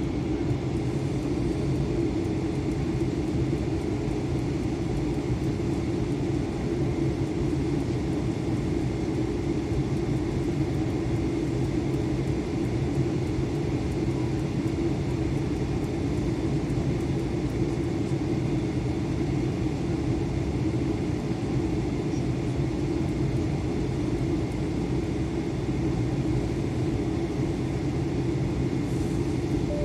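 Steady cabin drone of an Airbus A320 in flight: engine and airflow noise heard from inside the passenger cabin, with a constant low hum.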